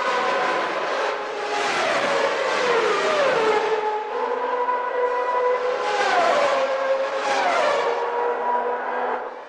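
1991 Formula One racing engines at high revs, the engine note falling in steps several times as the cars brake and downshift, then holding a high steady note between the drops.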